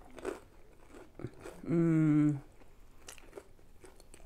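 Close-miked chewing of crunchy battered deep-fried food: soft crunches and wet mouth clicks, with a short closed-mouth hum held on one note about two seconds in.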